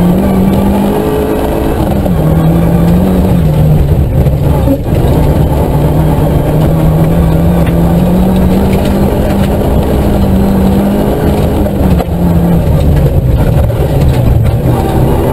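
Nissan Micra K11 rally car heard from inside the cabin, its engine pulling hard at around 5,000 rpm on gravel, over loud tyre and gravel rumble. The revs drop with an upshift from first to second about three seconds in, then fall again under hard braking near the end.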